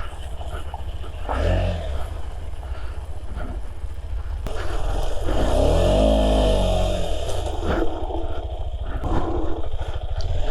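KTM 250 Adventure motorcycle riding over a dirt off-road track, its engine revving up and dropping back about halfway through, with a few knocks from the rough ground.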